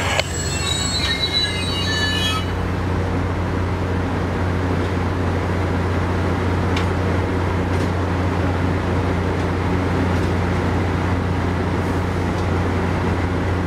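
MARC commuter train squealing as it comes to a stop, the squeal dying away about two seconds in. After that the standing train gives off a steady low hum.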